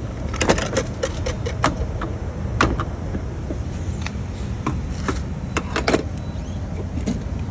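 Steady low rumble of a van's engine and road noise, with irregular sharp clicks and jingling over it.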